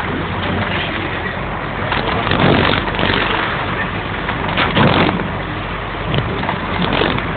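Ferry engine running with a steady low hum under a loud rushing noise, the rush swelling briefly about two and a half and five seconds in.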